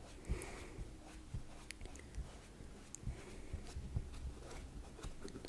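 ASMR triggers close to the microphone: scattered light taps and soft scratching, irregular small clicks and muffled knocks with a brief rustle about half a second in.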